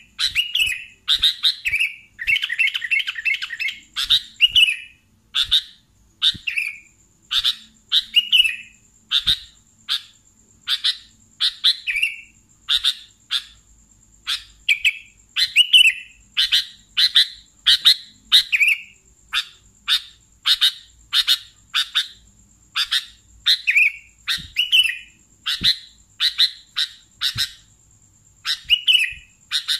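Sooty-headed bulbul (kutilang) singing: a long run of short, bright chirped phrases, about one or two a second, with a quick rattling flurry a couple of seconds in.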